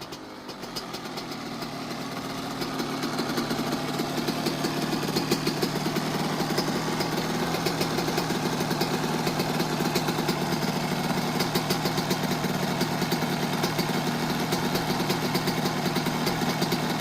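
Yamaha YZ85 single-cylinder two-stroke motocross engine idling steadily. It settles in just after the revs have dropped, getting slightly louder over the first few seconds.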